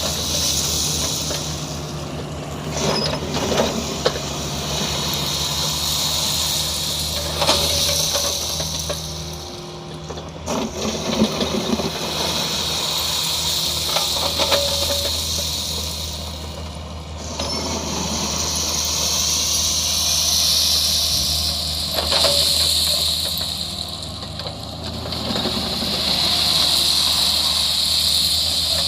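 Kubota mini excavator's diesel engine running steadily, with a high hiss that swells and fades every few seconds. Several sharp knocks and clanks sound through it as the machine works.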